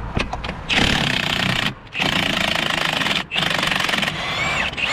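Cordless impact wrench hammering in three bursts of about a second each, undoing bolts during gearbox removal.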